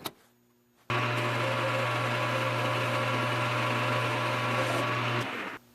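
Metal lathe running as it turns down a steel pin to size: a steady motor hum with cutting noise starts abruptly about a second in and stops abruptly near the end.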